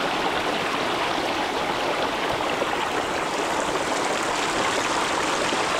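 Steady rush of flowing water, an even unbroken wash of noise.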